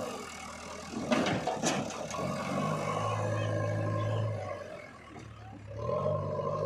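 Diesel engine of heavy earthmoving machinery running, dropping away just after the start and again about five seconds in, then picking back up each time. About a second in there is a short burst of loud clattering knocks.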